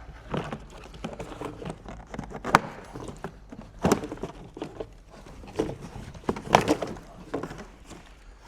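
Irregular sharp plastic clicks and knocks, three of them louder than the rest: an engine-bay trim panel being unclipped and handled.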